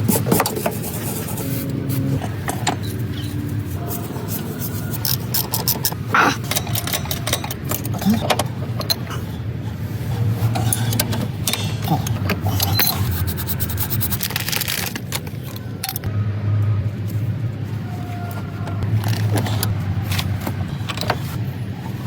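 Repair work on a van: scattered metal clicks, knocks and scrapes of tools over a steady low hum.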